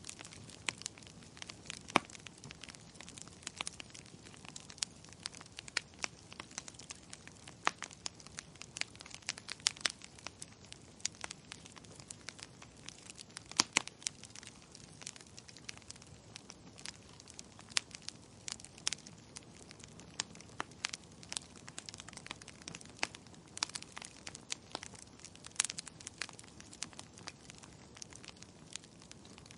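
Wood fire crackling in a fireplace: irregular sharp pops and snaps, a few a second, over a faint steady hiss.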